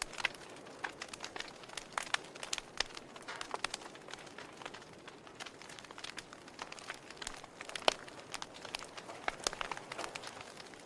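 Wood fire in a fireplace crackling: irregular snaps and pops over a soft steady hiss, with one sharper pop about eight seconds in.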